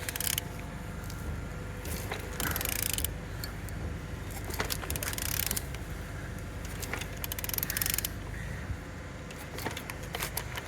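A used car engine's crankshaft turned over by hand with a wrench: ratchet-like clicks and metallic knocks, with a rushing noise about every two and a half seconds. The engine turns freely and shows compression.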